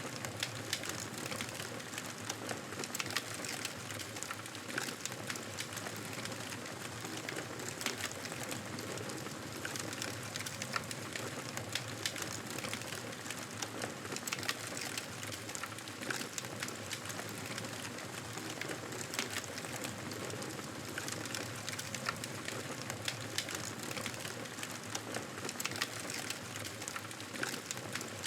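Wood fire crackling in a fireplace: a continuous hiss with frequent irregular pops and snaps.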